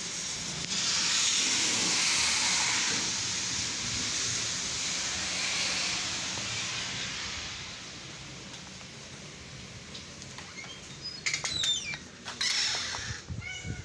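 Heavy rain falling in a steady hiss, loudest for the first several seconds and then easing off. Near the end come a few short, squeaky sounds.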